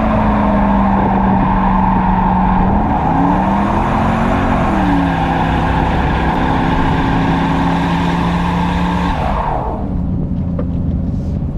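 V8 muscle car engine held at high revs during a burnout or donut, its note swelling up and back down once about three to five seconds in, over a steady screech of spinning tyres. The revs and the tyre screech drop off about nine and a half seconds in, leaving the engine running lower.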